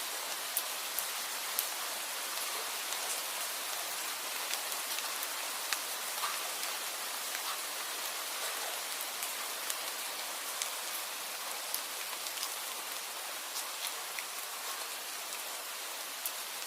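Steady rain, an even hiss with scattered sharper drops ticking throughout.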